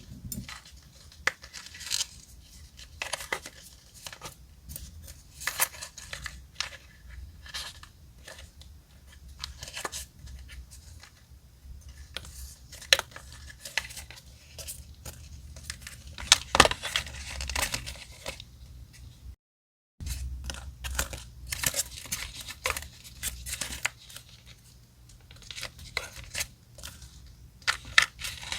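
Close-up paper sounds of journal decorating: many short rustles, crackles and tears of paper, with a brief dead silence about 19 seconds in.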